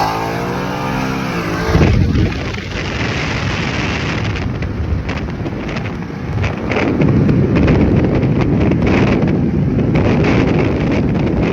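A car engine accelerating hard, its pitch climbing over the first two seconds. It then gives way to a loud, continuous rushing noise of engine, wind and road at speed, which runs until the footage cuts off near the end.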